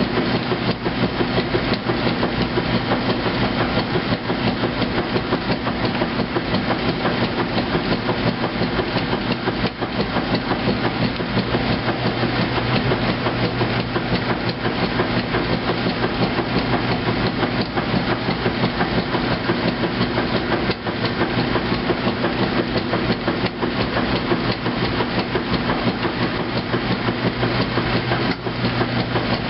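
2008 Kenmore top-loading washing machine agitating during its heavy duty wash, with a steady motor hum and a rapid, continuous churning and clacking of the agitator and transmission. It starts abruptly right at the beginning.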